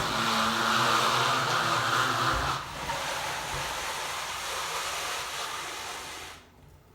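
1971 GMC pickup with an electric conversion driving: a steady rushing hiss of tyre and road noise with a faint drive whine under it and no engine sound. It is loudest for the first couple of seconds, then eases and drops away about six seconds in as the truck slows.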